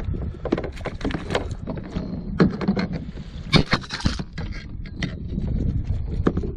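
Irregular knocks, clicks and a brief scrape of handling against a kayak, over a low wind rumble on the microphone.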